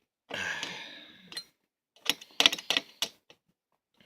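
A heavy breath out of effort, then a quick run of sharp clicks from a tool turning a tight screw in a plastic box fan housing.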